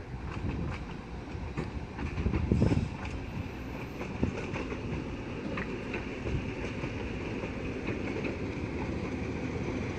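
Passenger coach of the 15-inch-gauge Romney, Hythe and Dymchurch Railway rolling slowly, a steady low rumble with scattered wheel clicks over rail joints and pointwork, and a louder rattle about two and a half seconds in.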